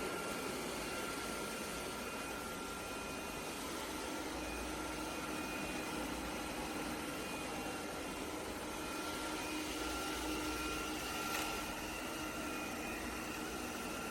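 Robot vacuum running: a steady fan rush with a constant high whine.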